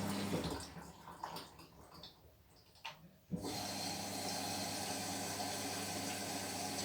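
Washing machine in its wash cycle: the drum motor's steady hum stops about half a second in, leaving a near-quiet pause with faint water sloshing and clicks, then starts up again abruptly after about three seconds and runs on steadily.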